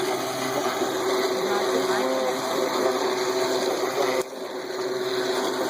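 Black & Decker electric string trimmer fitted with its snap-on mower deck, running with a steady motor whine. A sharp click about four seconds in is followed by a brief dip in the sound.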